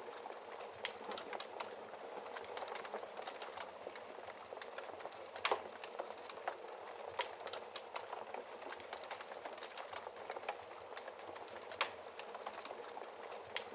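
Wood fire burning in a fireplace: a steady hiss of flames with frequent sharp crackles and pops, the loudest a little after five seconds in and again near the end.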